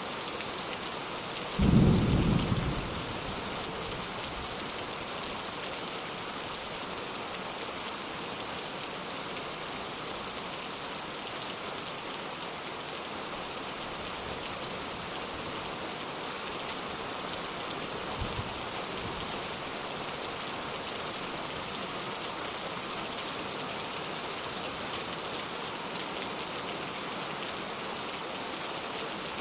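Steady rain falling, with a short, loud, low rumble of thunder about two seconds in and a much fainter low rumble a little past halfway.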